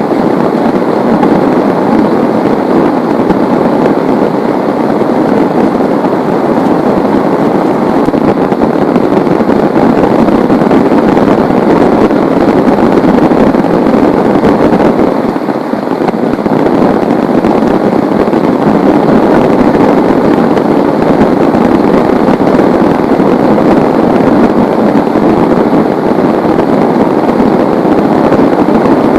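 Heavy rain pouring down in a loud, steady wash of noise, easing slightly for a moment about halfway through.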